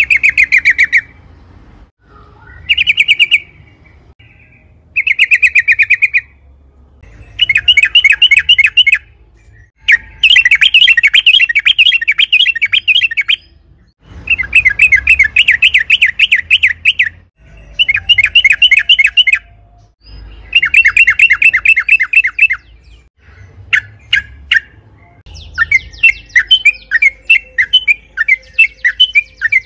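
Yellow-vented bulbul (trucukan) singing loudly: repeated bouts of rapid, rattling notes, each run lasting one to three seconds with short pauses between. Near the end they break into more separate, choppy chatter.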